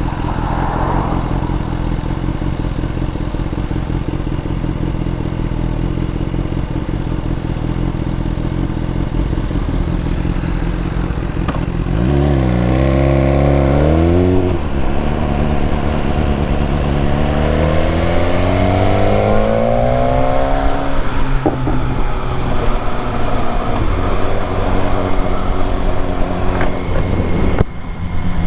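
BMW S1000R's inline-four engine under way with an SC-Project exhaust: running steadily, then about twelve seconds in it revs up hard, shifts, and pulls up through the revs again in a long rising note before settling back to steady cruising.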